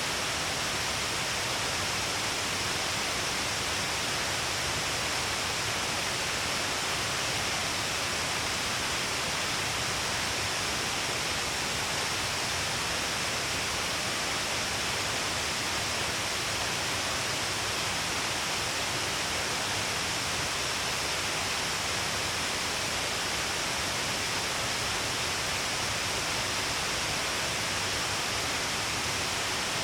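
Steady, even rush of water falling and splashing at Shiraito Falls, many thin falls streaming down a long cliff face.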